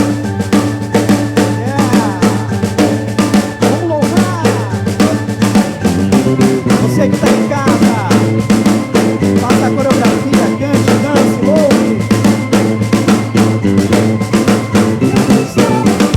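Live soul band playing, the drum kit to the fore with bass drum and snare hits over a bass line and keyboards, and a lead line bending in pitch above them.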